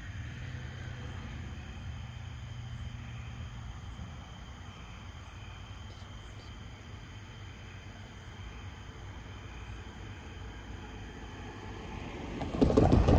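Crickets trilling steadily over a low hum that fades after about four seconds. A loud burst of noise comes near the end.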